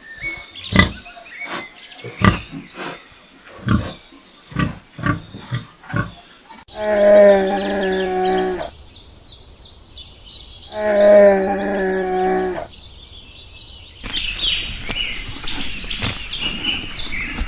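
Irregular sharp knocks and clicks, then two long, steady, pitched animal calls of about two seconds each, then bird-like chirping near the end.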